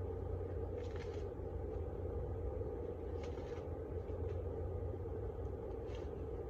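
A honeybee colony buzzing in a steady hum, with three short scrapes about one, three and six seconds in.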